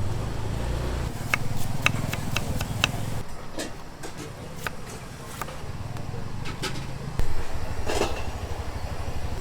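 Street ambience: a motor vehicle's engine running with a low pulsing rumble, with scattered sharp clicks and clinks over it.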